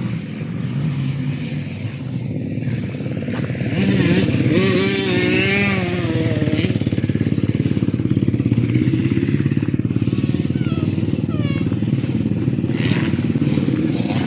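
Motorcycle engine running, getting louder about four seconds in and then running with a fast, even firing pulse.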